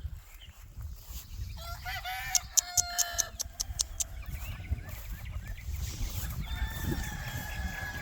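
Chickens clucking, with a run of sharp clicks about two seconds in, then a rooster crowing in one long held call near the end.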